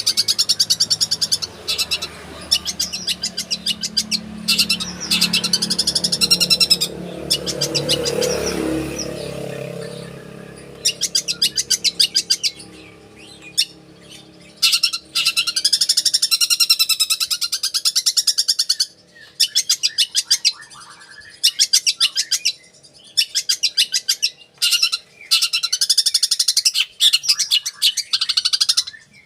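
Long-tailed shrike (cendet) singing in runs of very fast, high chirping, a second or two each with short pauses between, filled with mimicked Eurasian tree sparrow chirps. A low hum lies under the first third and fades out.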